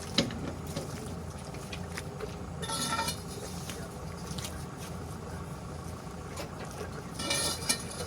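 Diesel truck engine idling steadily, with a sharp knock near the start and two short hissing bursts, about three seconds and seven seconds in.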